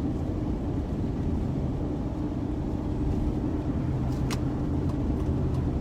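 Steady engine and tyre rumble heard inside a four-wheel-drive vehicle's cabin while it cruises on a snow-covered highway, with a constant low hum and one sharp click about four seconds in.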